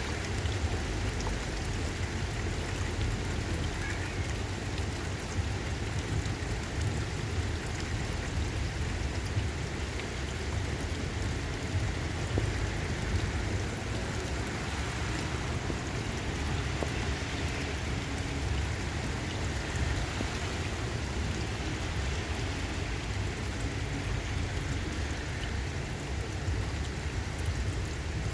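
Steady rain falling in a thunderstorm, with a constant low rumble underneath.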